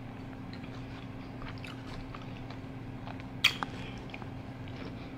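A person chewing and biting sauced boneless chicken wings, with small mouth clicks throughout and one sharp click about three and a half seconds in.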